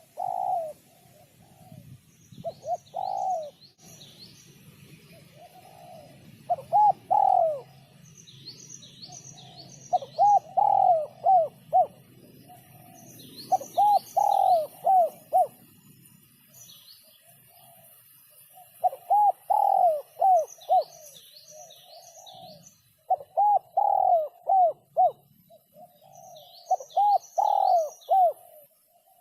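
Spotted dove cooing in the deep 'sấm' voice that dove keepers prize, with phrases of several quick coos repeated every few seconds. Groups of about four short, high chirps from a smaller bird come in between.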